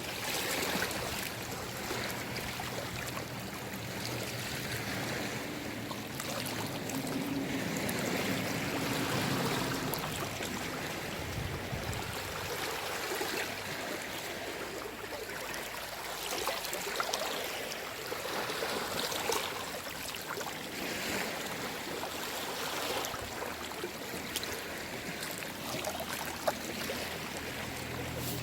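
Small waves of a calm sea washing in and draining back, a steady wash that swells every few seconds.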